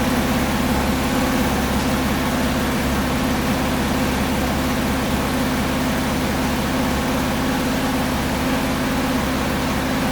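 2006 Porsche Cayman S (987.1) 3.4-litre flat-six idling steadily through its stock factory exhaust.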